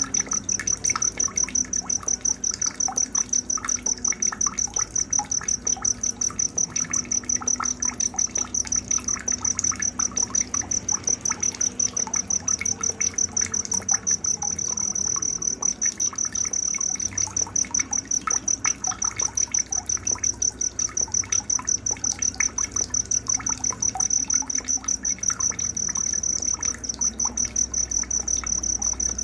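Night-time nature soundscape: a cricket chirping steadily in a high, even pulse about three times a second, with scattered short, quieter calls underneath.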